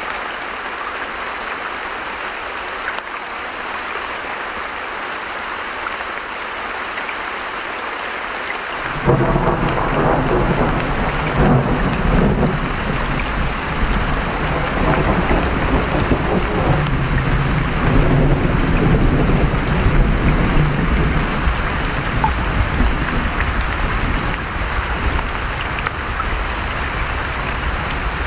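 Steady heavy rain, with a rolling clap of thunder breaking in about a third of the way through and rumbling on for several seconds before slowly fading under the rain.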